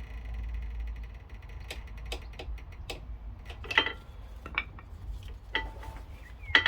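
Irregular metallic clicks and clinks of brake pads and tools against a brake caliper, with two louder ringing clinks, one near four seconds in and one at the end.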